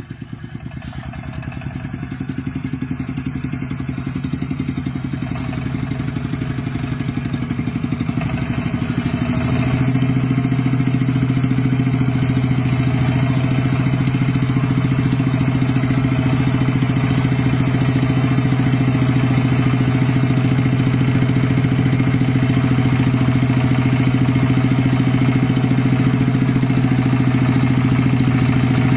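Tractor engine running at a steady speed with a constant low hum, growing louder about ten seconds in and then holding steady.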